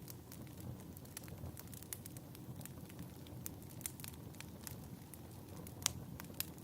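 Wood fire crackling in a fireplace: a low steady rumble with irregular sharp pops and snaps, the loudest pop about six seconds in.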